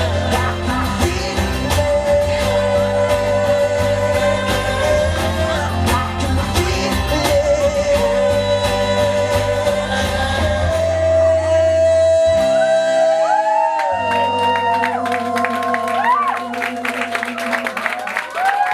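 Live rock band and singer playing the song's closing section; about two thirds of the way in, the bass and drums drop out, leaving held sung and instrumental notes. Crowd whoops and cheering start over the final notes near the end.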